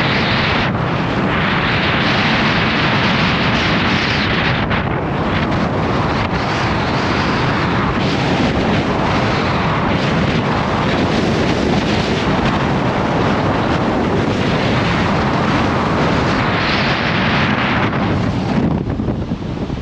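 Gale-force wind buffeting the microphone: a loud, continuous rush that rises and falls with the gusts and eases briefly near the end.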